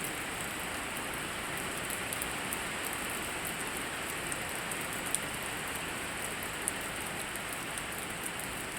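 Steady rain falling and pattering on surfaces, with a few sharp drips or taps now and then.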